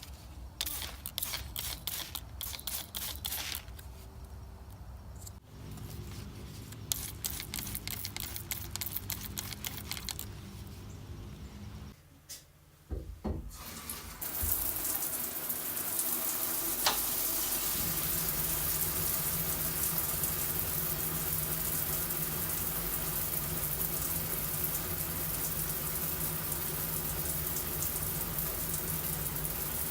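Water running steadily from a tap, starting about halfway through after a stretch of light clicks and handling noises. A steady low hum joins a few seconds after the water starts.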